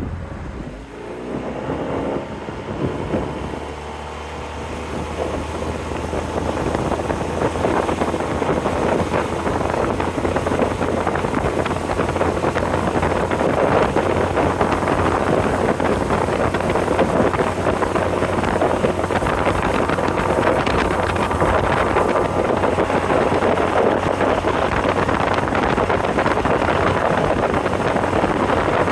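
Yamaha F25 four-stroke outboard motor accelerating, its pitch rising over the first few seconds, then the jon boat running at speed with a steady rush of wind and water. Wind buffets the microphone.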